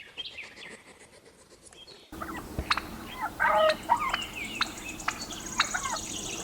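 Faint bird chirping. About two seconds in it cuts abruptly to louder bird calls, warbling and gliding, with sharp clicks and a thin, high, steady whine near the end.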